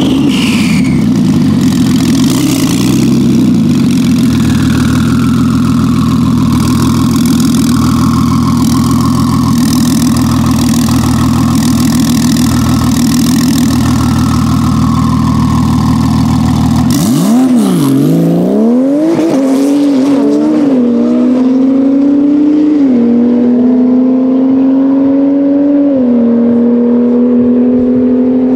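Tuned Porsche 991 Turbo S twin-turbo flat-six holding a steady low idle on the start line. About seventeen seconds in it switches to a full-throttle run: the pitch dips and climbs, then rises through the gears with about three sharp drops at the upshifts.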